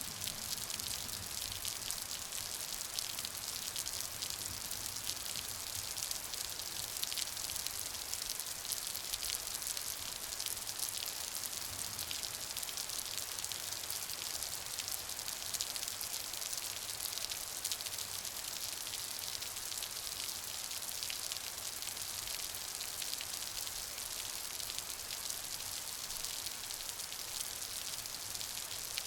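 Steady rain falling, a dense patter of fine drops with a bright hiss and no let-up.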